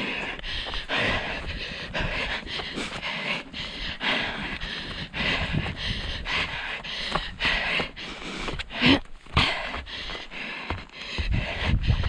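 A running orienteer panting hard, with regular footfalls and wind rumbling on a head-mounted microphone.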